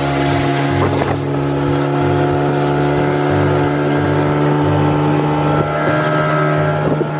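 Speedboat engine running steadily at speed, loud and even.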